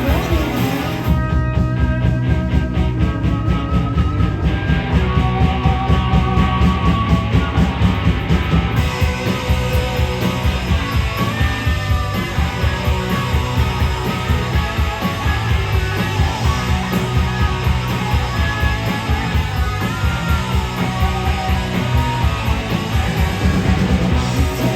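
Rock band playing live, guitar and drums, with a steady fast beat.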